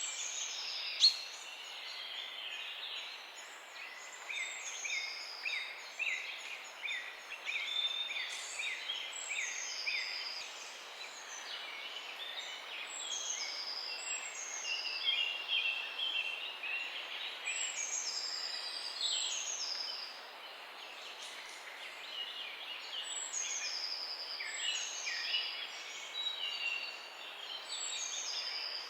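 Several songbirds chirping and singing together in a morning chorus, with many short downward-sweeping whistles over a steady background hiss. A single sharp click about a second in.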